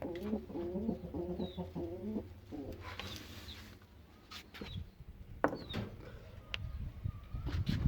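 Domestic pigeons cooing for the first two seconds or so, followed by a brief hissing rush about three seconds in and scattered clicks and knocks.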